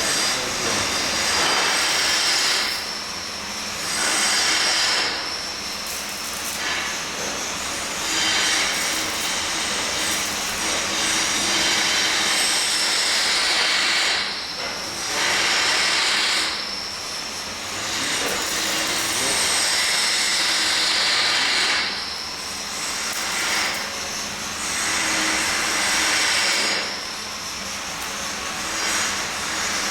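Welding workshop noise: a loud hiss that comes and goes in stretches of a few seconds, as work at the welding posts starts and stops, over a fainter steady hum.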